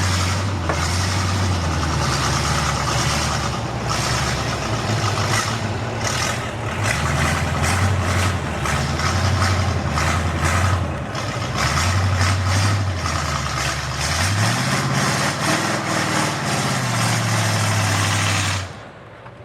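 Ford mud truck's V8 engine with open upright headers running loud and rough at low revs, with many short sharp cracks, then revving up once about fourteen seconds in and easing back down. The sound cuts off abruptly just before the end.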